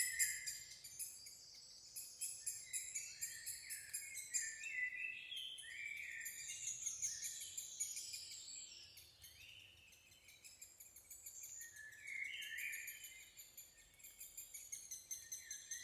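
Several wild birds singing at once in a morning chorus, with warbling, gliding phrases overlapping and a fast, high ticking running above them. The singing thins out for a few seconds around the middle, then picks up again.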